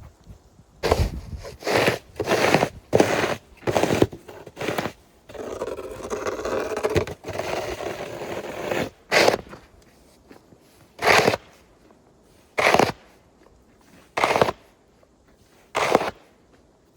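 Snow shovel scraping and pushing snow, in a run of quick strokes, then one longer push, then single strokes about every second and a half.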